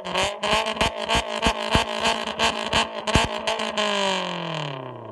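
Maruti Zen VXi petrol engine revved through a Borla valved aftermarket exhaust. The revs are held high with a rapid series of sharp cracks, then fall back about four seconds in.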